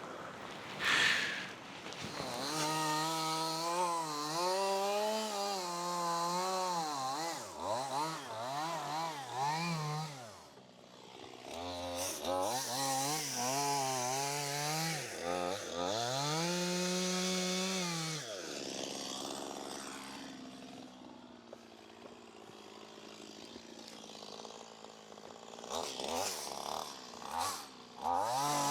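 Chainsaw revving and cutting, its pitch rising and falling over and over with the throttle. It drops back to a quieter idle for several seconds past the middle, then revs up again near the end.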